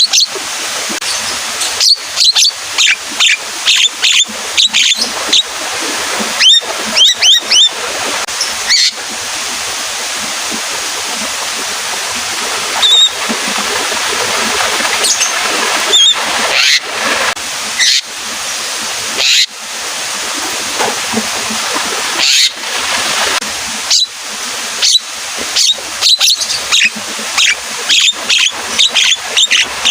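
Javan myna (jalak kebo) calling in clusters of short, sharp, loud notes, over a steady hiss of falling rain.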